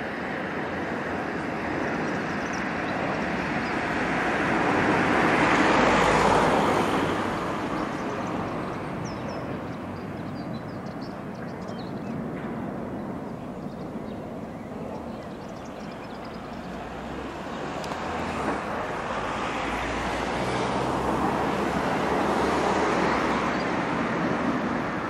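Jet airliner's engines in a rushing roar that swells to a peak about six seconds in, dies back, then builds again to a second long swell near the end.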